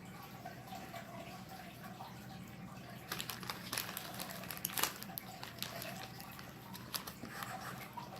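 Someone eating at close range: a run of small, sharp, wet clicks and crunches of chewing that starts about three seconds in, over a steady low hum.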